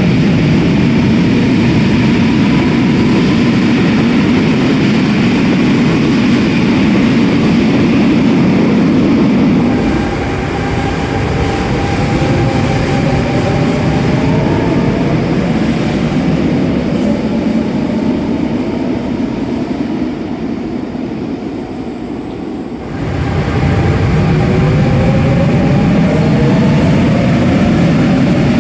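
RER A electric commuter trains at a platform: a loud rumble of wheels on rails, which eases about ten seconds in while the traction motors' whine rises in pitch as a train accelerates away. A fresh loud rumble starts suddenly near the end, again with a rising motor whine.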